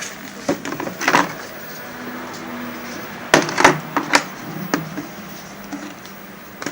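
Sharp clicks and light knocks of hands working on an opened television set, strongest about halfway through, with a faint low hum for a moment before them.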